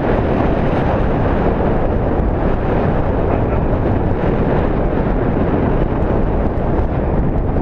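Loud, steady rush of wind over the microphone from the airflow of paraglider flight.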